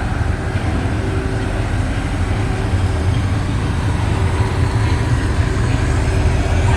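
Steel roller coaster train running along its track: a steady, loud rumble.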